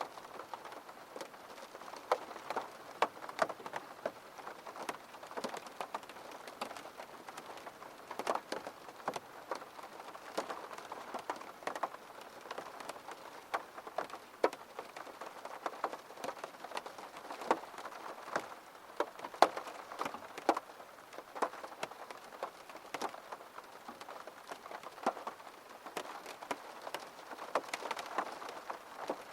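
Rain falling steadily, with many separate drops landing as sharp, irregular ticks over a soft patter.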